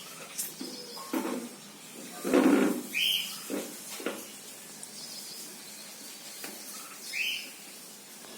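Small pet parrot-type birds chirping: a few short upward chirps, one about three seconds in and another near seven seconds. Between about one and four seconds there are several short, low, muffled sounds, the loudest around two and a half seconds.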